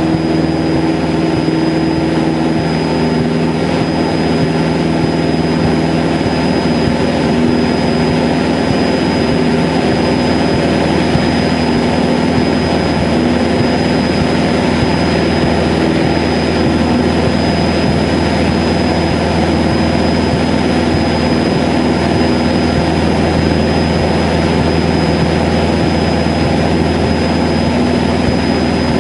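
Cessna 152's Lycoming O-235 four-cylinder engine and propeller running steadily, heard from inside the cockpit, with a thin steady high whine over the drone.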